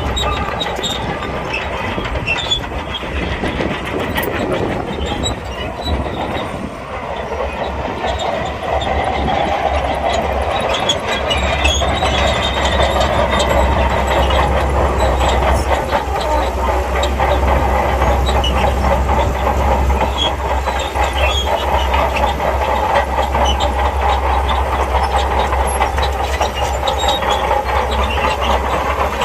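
SHANTUI crawler bulldozer working, its diesel engine running under load while the steel tracks clank and squeal. It grows louder about ten seconds in.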